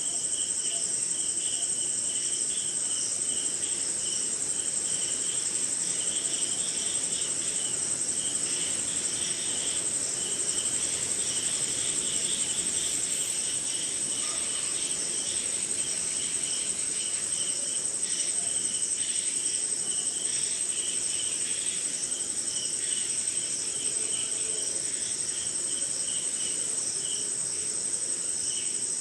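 Night chorus of crickets and other insects: a steady high-pitched trill with a rhythmic, pulsing chirp running beneath it.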